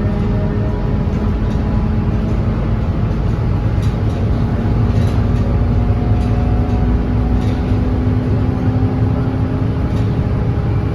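Scania KUB Euro 5 city bus under way: a steady engine rumble with a drivetrain whine whose pitch climbs slowly through the second half as the bus gathers speed.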